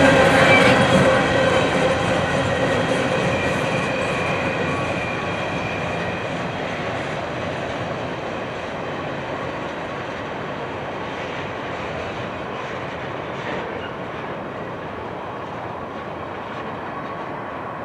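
Empty steel open-hopper coal cars of a freight train rolling away on the rails. The wheel-on-rail noise fades steadily as the train recedes, with a few thin steady ringing tones over the first several seconds.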